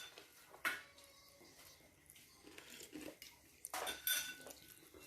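Cutlery clinking and scraping on plates during a meal: a sharp tap less than a second in, faint scraping, then a brief ringing clink of metal on crockery about four seconds in.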